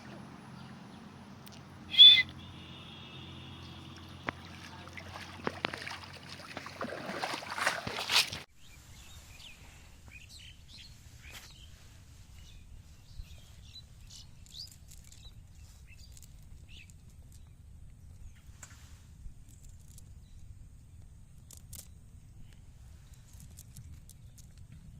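Birds chirping outdoors. About two seconds in comes one loud, sharp call with a held high note, and a noisy stretch builds up and cuts off abruptly about eight seconds in. After that only faint scattered chirps remain.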